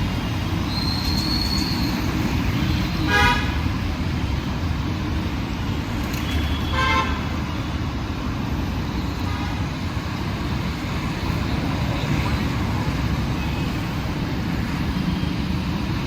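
Steady road traffic rumble with two short vehicle horn honks, about three seconds in and again a few seconds later.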